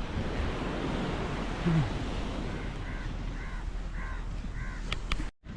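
A crow cawing about five times in a quick, even series over a steady wash of wind and surf. The sound cuts off abruptly near the end.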